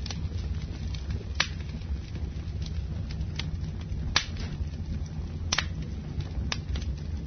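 Campfire burning: a steady low rumble of flames with wood crackling in scattered sharp pops, the loudest about a second and a half in and about four seconds in.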